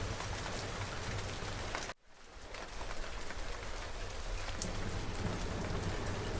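Steady rain pattering on a surface, with drops ticking through it. About two seconds in it drops abruptly almost to silence, then swells back up over the next second or two.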